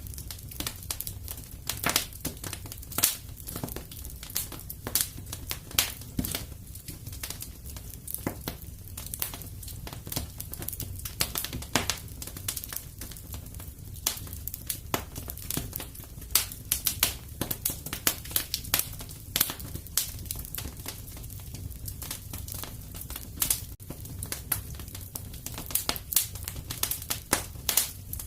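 Wood fire in a fireplace crackling steadily, with irregular sharp pops several times a second over a low, steady rumble.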